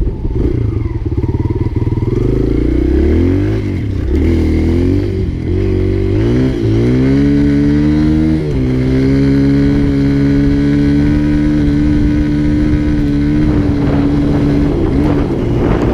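Dirt bike engine revving up and down through the gears while riding on snow. From about halfway it holds a steady high pitch at constant throttle, then falls away near the end as the throttle is eased off.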